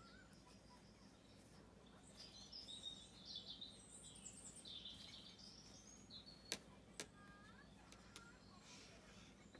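Faint birdsong: small birds chirping and twittering in a busy burst from about two seconds in. Two sharp clicks about half a second apart follow, the loudest sounds.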